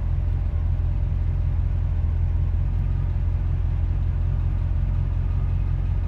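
1992 Chevrolet Corvette C4's V8 engine idling steadily, a deep even rumble with no revving.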